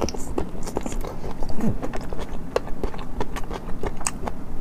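Close-miked biting and chewing of springy boneless chicken feet in a hot-and-sour sauce: wet mouth sounds with many short, sharp, irregular clicks.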